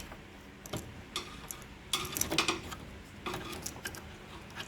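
Plastic wiring-harness connectors being unplugged from a washing machine's electronic control board: a scattered series of small clicks and rattles as the connector locks are pressed and the plugs pulled.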